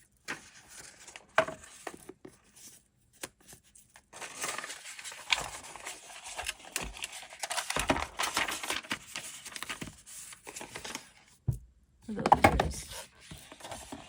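Packaging being handled and unwrapped: scattered light rustles at first, then several seconds of steady crinkling, and a louder rustle with a soft knock near the end.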